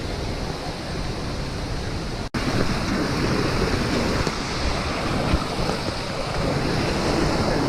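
Waterfall water rushing steadily, an even wash of noise, broken by a very short dropout about two seconds in.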